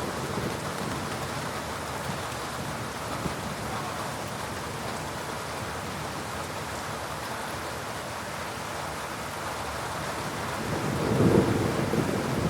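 Steady heavy rain falling during a thunderstorm, with a low rumble of thunder rising near the end.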